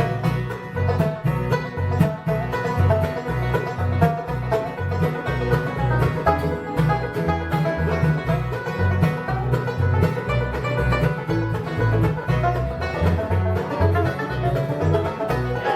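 Live bluegrass band playing an instrumental break: quick plucked banjo and guitar notes over a steady, even bass beat.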